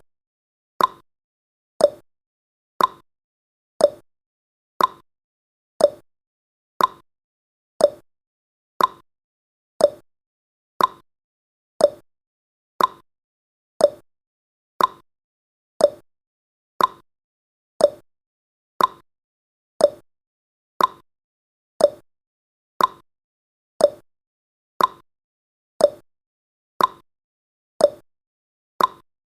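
Countdown timer's clock-tick sound effect: a sharp tick about once a second, steady and even.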